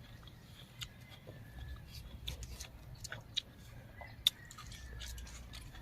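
Close-miked eating sounds: scattered sharp mouth clicks and soft chewing, over a low steady hum.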